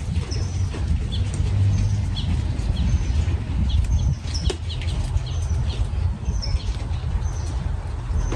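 Small birds chirping: short, high calls repeating irregularly, over a constant low rumble.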